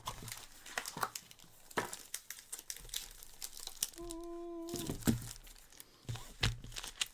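Foil Pokémon trading-card booster packs crinkling and rustling as they are handled and torn at, with scattered small clicks. About four seconds in, a short steady tone is held for under a second.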